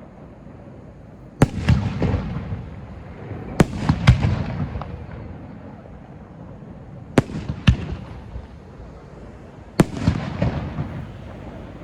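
Aerial firework shells, at most size-3 (about 9 cm), bursting at close range: about six sharp bangs, some in quick pairs, each followed by about a second of crackle and echo.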